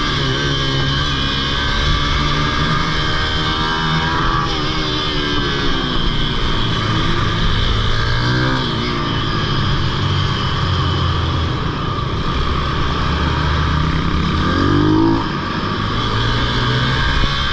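Pitbike engine running hard around a kart track, its pitch repeatedly dropping and climbing again as the rider brakes into and accelerates out of corners, with a short dip in loudness near the end.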